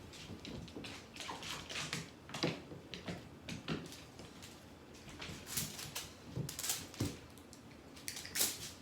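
Irregular short scratchy rustles and taps, about a dozen, from a cat at play.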